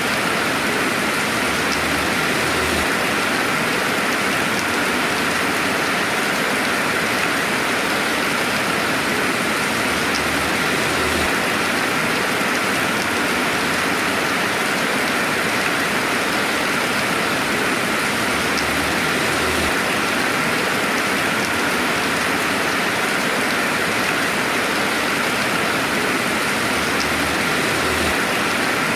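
Steady rainfall, an even hiss of rain on a surface with no thunder.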